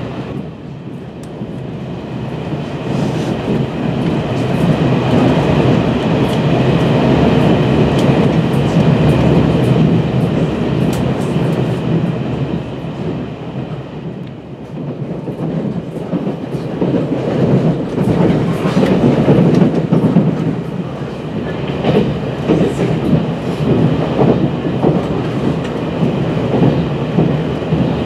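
Running noise of a Taiwan Railway Fu-Hsing passenger car under way: a steady rumble of wheels on the track with a few faint clicks, its loudness swelling and easing, with dips near the start and about halfway through.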